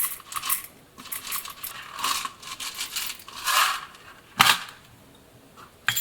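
Light rattling and clicking of small hard objects being handled, with a sharp knock about four and a half seconds in and another just before the end.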